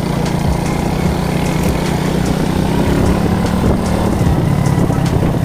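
Alpha moped's single-cylinder four-stroke engine running steadily under way, with scattered short clicks and rattles.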